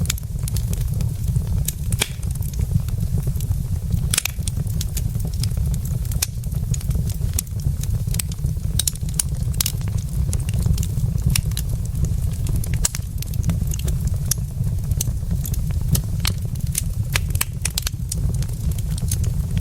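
Logs burning in a fireplace, crackling with frequent irregular snaps and pops over a steady low rumble of the fire.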